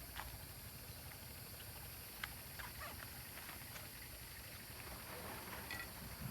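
Faint rustling with scattered small snaps and clicks over a low background hum; the sharpest snap comes about two seconds in, and the rustling thickens near the end.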